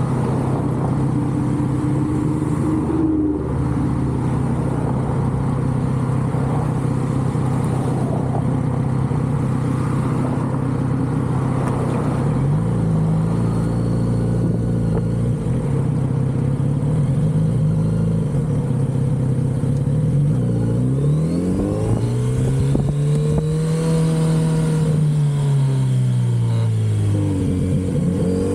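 Kawasaki Z900RS's inline-four engine with its stock exhaust, under way on a ride: it holds one steady engine note for the first twelve seconds or so, then the revs step up and hold, drop, and about two-thirds in rise and fall again as the bike accelerates and slows.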